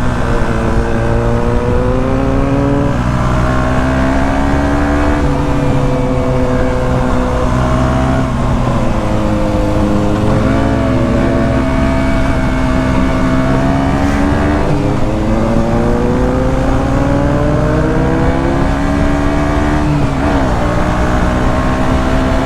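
KTM 125 Duke's single-cylinder four-stroke engine running under way. Its pitch climbs and falls with the throttle, with several sudden drops at gear changes.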